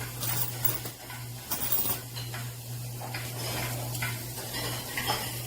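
Quarters clinking and jingling as handfuls are poured and shifted between cups, in many small irregular clicks over a steady low hum.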